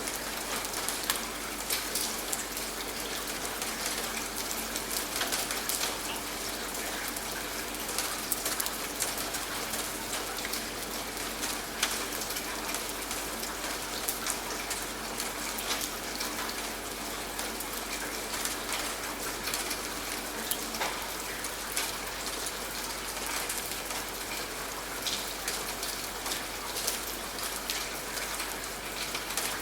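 Steady rainfall, with many individual drops ticking on a hard surface over an even wash of rain.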